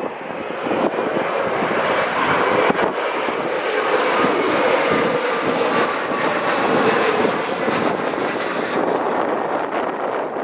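Airliner passing close by on landing, its engines a loud rush that swells over the first couple of seconds and then holds, with a faint whine falling slightly in pitch. Wind buffets the microphone in low thumps early on.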